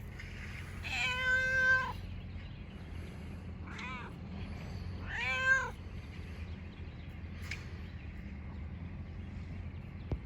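Feral domestic cat meowing three times: a long meow about a second in, a short faint one a little before the middle, then another long meow.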